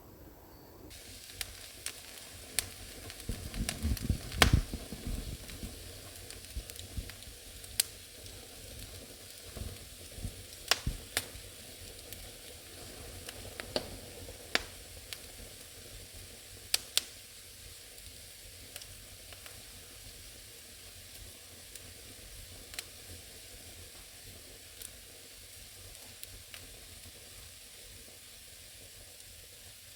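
Wood fire burning in an old fireplace: a steady low hiss with sharp crackles and pops of the burning logs. The pops come thickest and loudest a few seconds in, then thin out to occasional snaps.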